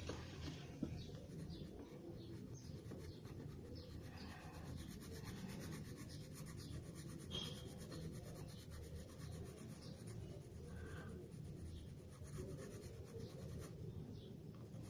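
Faint scratching of a pencil shading on paper with light, repeated strokes.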